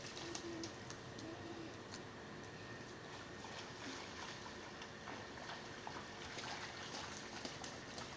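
Steady rain falling, an even hiss with many small scattered ticks of drops landing.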